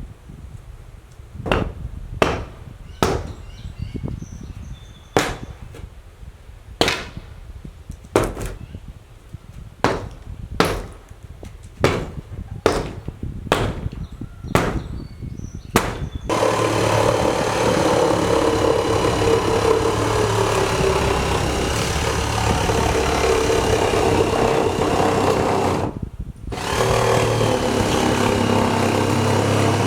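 About fifteen hammer blows on wood at an uneven pace. Then a power tool runs steadily for about ten seconds, stops briefly and starts again near the end.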